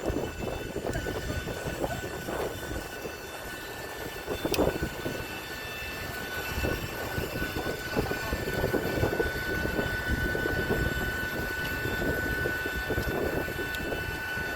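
Steady high-pitched whine of a parked jet airliner during boarding, several held tones over an irregular low rumble, with a sharp click about four and a half seconds in.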